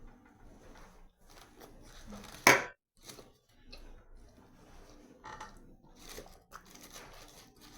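Close-up chewing and mouth sounds of someone eating a hamburger, with scattered small clicks and crackles, and one loud sharp crackle about two and a half seconds in followed by a brief gap.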